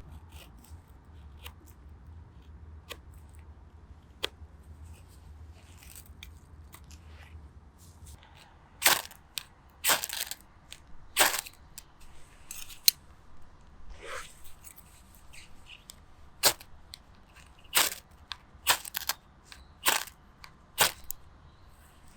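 Dry wood cracking and snapping in a small wood fire. Sharp single cracks come sparse and faint at first, then louder at about one a second from about nine seconds in.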